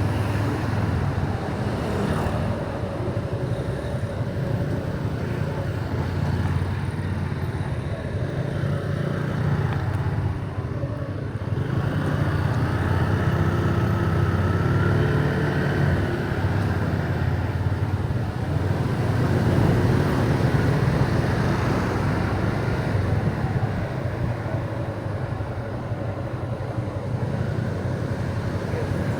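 Motorcycle engine running steadily while riding on the road.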